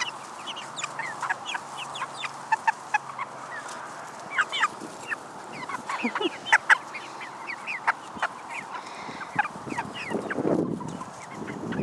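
A flock of young Cornish Cross meat chickens, about seven weeks old, peeping and clucking in many short, overlapping calls. A louder, lower call comes near the end.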